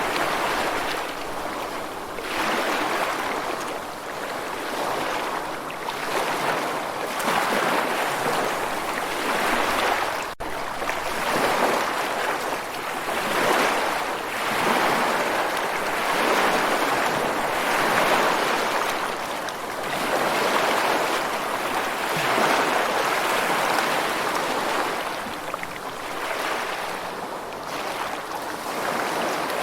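Rushing water, a steady wash of surf-like noise that swells and eases every couple of seconds, with a brief dropout about ten seconds in.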